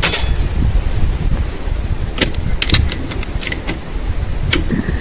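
Wind buffeting the microphone, with a sharp click right at the start and a run of light metallic clicks a couple of seconds in: an air rifle's action being worked to reload between shots.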